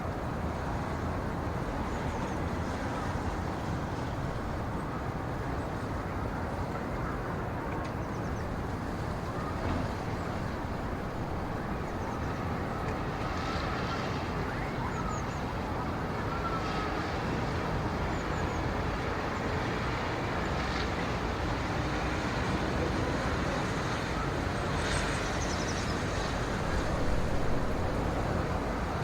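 Steady low rumbling background noise with a few faint, short high chirps scattered through it, swelling slightly near the end.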